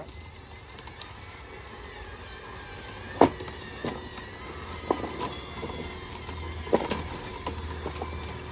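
Radio-controlled construction machine running, its electric motor and hydraulic pump whining steadily, with several sharp metal clanks in the middle of the stretch, the two loudest a little past three seconds in and near seven seconds in.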